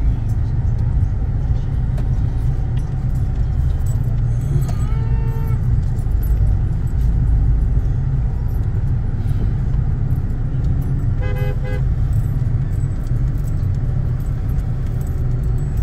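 Steady low rumble of cars and traffic. A short horn toot comes about five seconds in, and a second, stuttering toot comes a little before twelve seconds.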